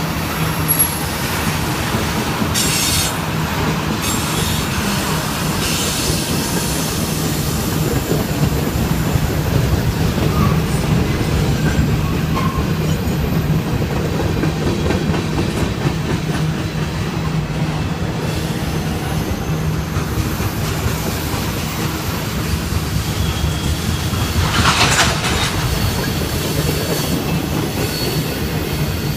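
CSX freight train rolling past, a steady rumble of wheels on rail with clickety-clack. Brief high wheel squeals rise over it a few times, the loudest about 25 seconds in.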